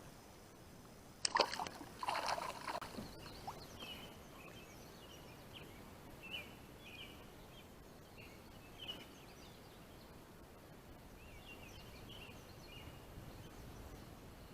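A splash in the water about a second in as a released smallmouth bass goes back into the river, with water sloshing for a second or two. Faint, short bird chirps repeat after it.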